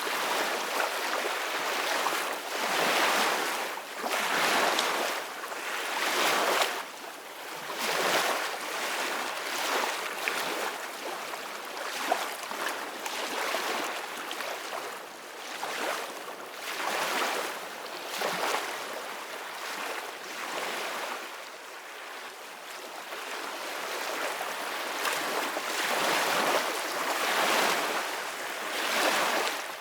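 Sea waves washing and splashing against one another in repeated surges every couple of seconds, over a steady hiss of moving water.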